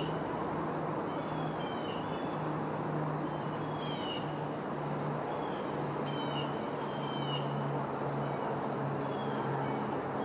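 A bird calling over and over, short high notes that slide downward and come about once every second or so, over a steady low hum.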